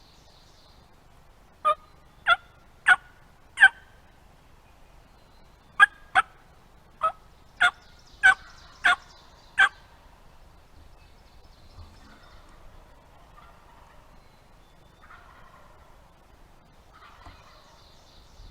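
Turkey calling: two runs of short, sharp, loud notes, four and then seven, each note very brief. Fainter scratchy sounds follow near the end.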